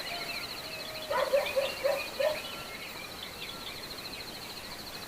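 A bird calling in a quick run of short repeated notes, about four a second, a little after a second in, over a steady high pulsing trill.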